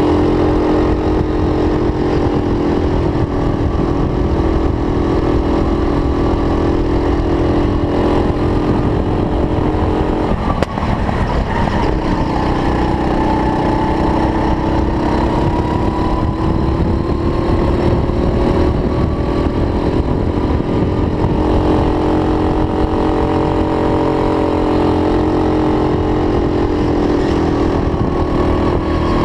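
Go-kart engine running hard at a steady high pitch, which drops sharply about ten seconds in and then climbs gradually back up as it revs out again.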